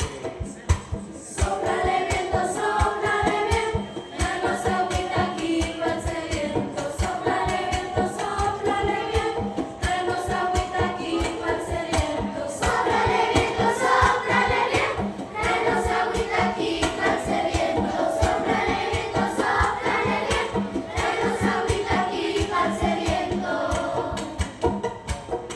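Choir singing a choral song in several voices over a steady, rhythmic accompaniment. The voices come in about a second in and fall away near the end, while the accompaniment keeps its beat.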